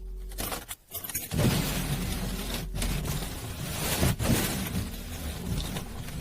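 A car engine cranking over in freezing cold, struggling to start. A few clicks come first, and the rough cranking sets in about a second and a half in.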